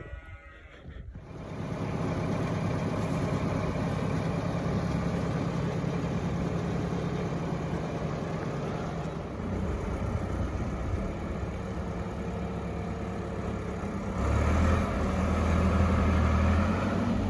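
Farm tractor engine running steadily, starting about a second in and growing louder and deeper near the end as it takes more throttle or load.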